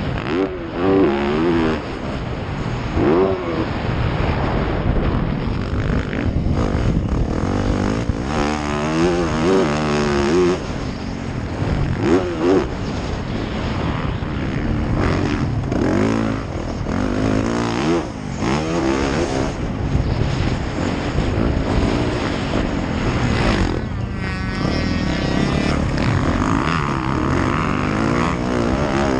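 Dirt bike engine heard from on board, revving up and dropping back over and over as the rider works the throttle and shifts gears.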